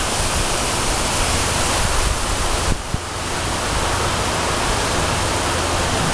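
Strong gusty wind blowing and buffeting the microphone with a low rumble, easing briefly about three seconds in.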